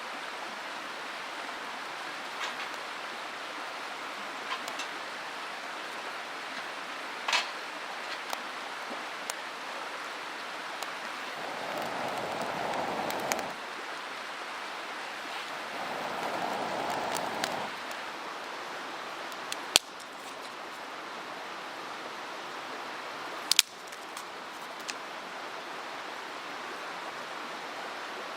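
Steady rushing of a mountain stream, with scattered sharp clicks and pops. About midway, two louder swells of sound, each lasting about two seconds, rise over the water; two sharp clicks come later.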